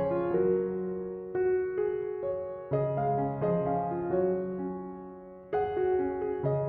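Background piano music: slow chords struck and left to fade, with a fresh chord about every one to three seconds.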